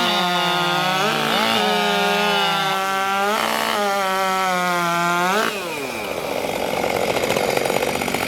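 Two-stroke racing chainsaw running at full throttle through a timed cut, its high engine note dipping briefly twice under load. About five and a half seconds in it comes off the wood and the pitch falls away to a lower, steadier running note.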